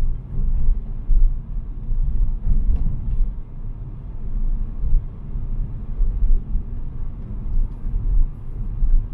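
Car on the move: a steady low rumble of engine and road noise that swells and eases.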